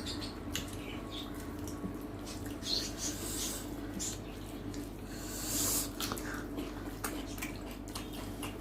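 People eating at the table: chewing, lip smacks and small clicks, with a couple of hissing breaths from the heat of very hot green-chilli curry, over a steady low hum.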